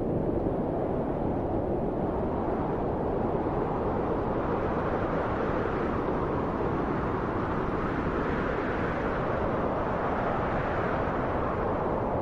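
Wind blowing steadily in a deep rush, swelling and easing slowly, with a gentle rise about two-thirds of the way through.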